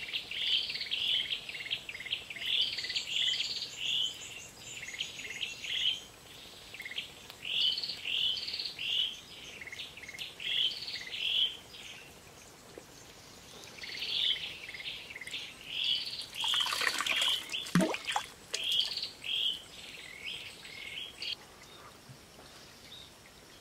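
A bird calling over and over in short, high chirps, about two a second, in runs with brief pauses. About seventeen seconds in, a louder, noisier burst with a falling tone cuts across the calls.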